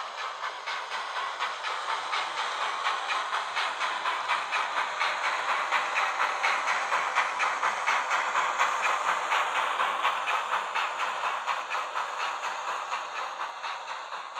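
Sound decoder in a model BR 02 steam locomotive (Zimo MX645R with a Henning sound project) playing quick, evenly spaced steam exhaust chuffs with hiss through small speakers, thin and without bass. The chuffing swells louder toward the middle and eases off near the end.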